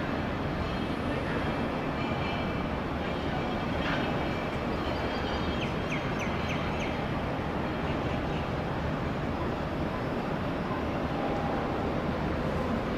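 Steady rumble of an Airbus A330's jet engines on landing approach, mixed with strong wind on the microphone.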